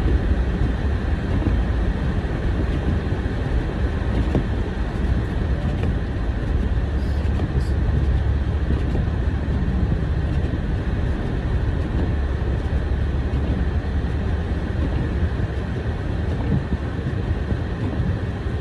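Steady rumble of a car driving on a snowy road, heard from inside the cabin: engine and tyre noise.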